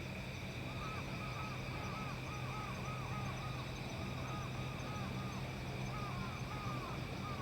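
Steady electrical hum of a stationary E235-series electric train, with a thin high whine over it. From about a second in, a run of short chirping calls repeats about three times a second.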